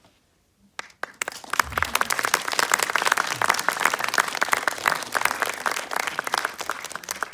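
Audience applauding: clapping starts about a second in, builds, and tails off near the end.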